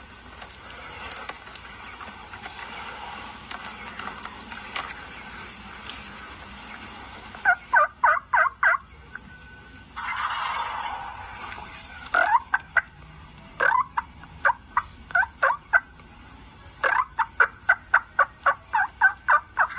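Wild turkey calling: several runs of quick, sharp yelp notes, four or five a second. A harsher rolling gobble cuts in about halfway through.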